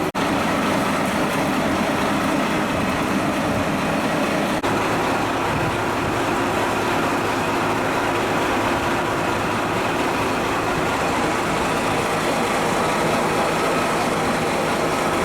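Diesel railcar engine running steadily, a dense rumble with a faint steady hum in it, broken by a brief dropout about four and a half seconds in.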